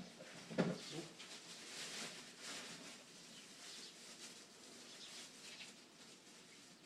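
Small birds at a feeder chirping faintly, with a short low thud about half a second in, the loudest sound.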